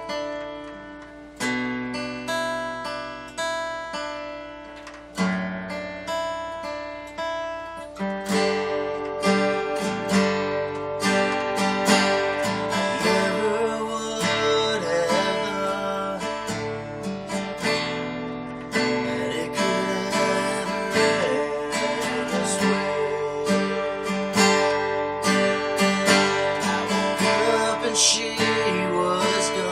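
Guitar played without words, an instrumental passage of a country song. It starts with sparser picked and strummed chords that ring out, then from about eight seconds in the strumming turns busier and louder.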